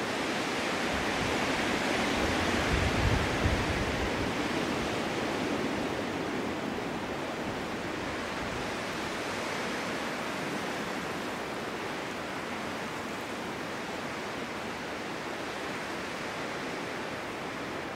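Snowstorm wind blowing steadily, with a stronger gust swelling in the first few seconds that brings a low rumble about three seconds in, then settling back to an even rush.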